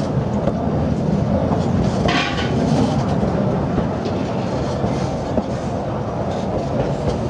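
Durango & Silverton narrow-gauge train cars rolling along the track: a steady rumble with wheel clatter over the rails, and a short rush of higher, hissing noise about two seconds in.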